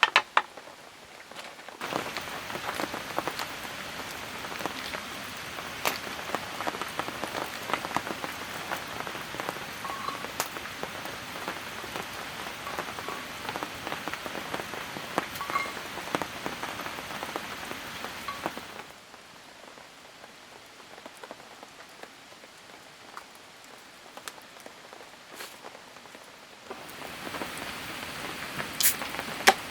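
Steady rain pattering, with many separate drops ticking. It is louder and denser for most of the stretch, drops to a softer patter about two-thirds of the way through, and picks up again near the end.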